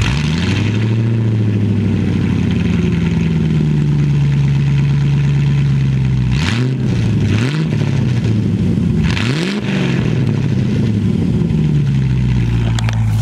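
Land Rover Discovery 1's 3.9-litre V8 firing up and settling into a steady idle. Around the middle it is revved in three quick blips, the last one longer, then it drops back to idle.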